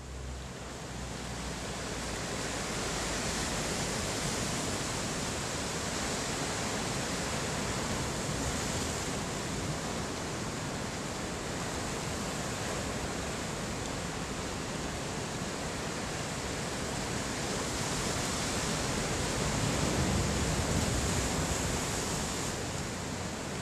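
Heavy ocean surf breaking, a continuous wash of noise from large waves that swells a little toward the end.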